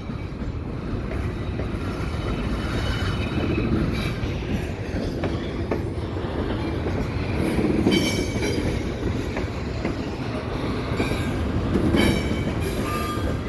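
A slow-moving cut of intermodal double-stack railcars being shoved back, rumbling steadily with wheels clicking over the rail. Brief high wheel squeals come about two-thirds of the way in and again near the end.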